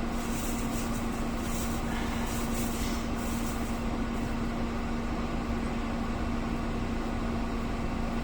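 A machine running steadily: an even drone with one constant hum tone, and faint crackling hiss in the first few seconds.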